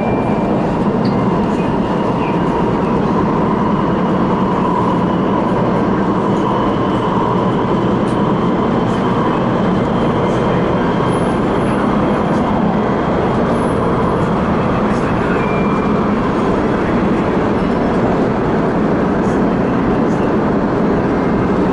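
A CRRC Changchun-built MTR West Rail Line electric multiple-unit train running at speed, heard as a steady loud rumble of wheels and running gear with a faint whine over it.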